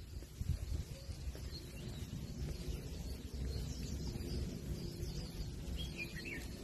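Outdoor ambience: a low, uneven rumble on the microphone with a few faint bird chirps, and a short cluster of chirps near the end.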